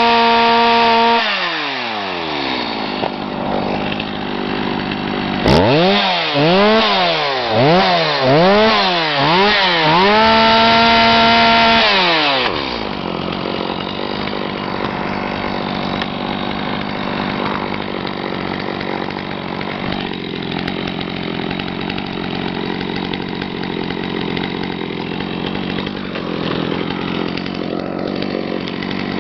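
Stihl MS250 two-stroke chainsaw engine running at high revs, then dropping to idle about a second in. A few seconds later the throttle is blipped four times, held wide open for about two seconds, and let fall back to a steady idle.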